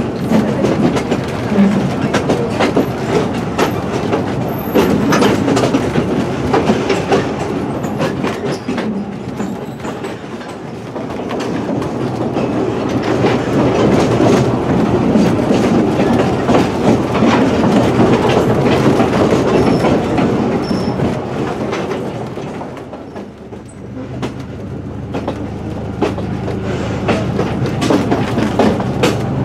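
Two-foot narrow-gauge passenger car rolling along the track, heard from aboard the open-sided coach: wheels clacking over rail joints and the car body rattling. Near the end the rolling noise dips briefly, then a steady low hum comes through under the clacking.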